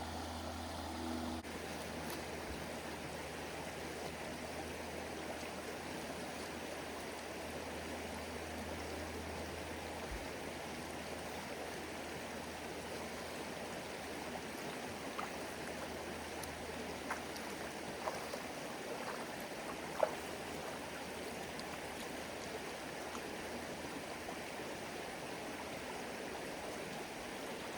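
A shallow river rushing steadily over rocks, with a few faint clicks about two-thirds of the way through.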